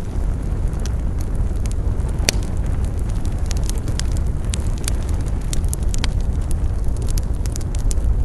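Campfire burning with a steady low rumble of flames and frequent irregular sharp crackles and pops of burning wood. One pop, a little over two seconds in, is louder than the rest.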